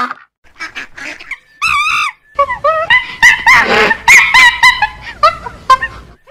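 Mallard ducks quacking, then a busy run of short honking calls, several a second, that stops just before the end.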